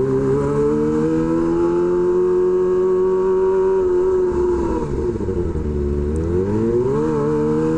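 Kawasaki Ninja ZX-25R inline-four engine through an SC-Project H2 exhaust, heard while riding. It holds a steady high note for about four seconds, then the revs fall and swing up and down before rising again near the end.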